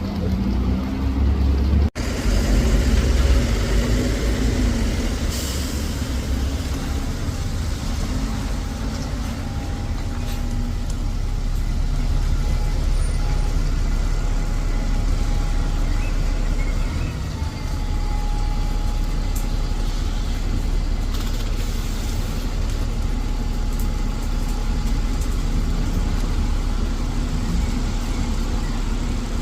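Bus engine running steadily, with short hisses of air about five seconds in and again about twenty seconds in.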